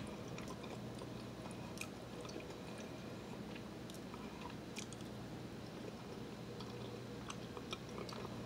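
A person faintly chewing a mouthful of blackberry, with scattered small mouth clicks.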